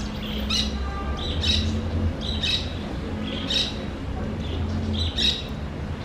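Macaw squawking, a short harsh call repeated about once a second, five times.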